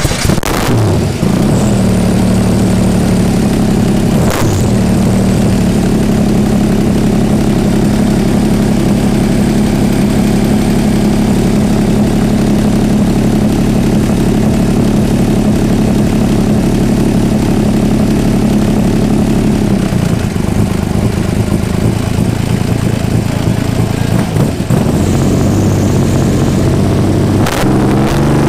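A 12-cylinder marine racing engine in a Cobra-style roadster running loud just after a cold start. It revs up as it catches, blips briefly about four seconds in, then holds a steady fast idle that drops to a lower idle about twenty seconds in, with another short rev near the end.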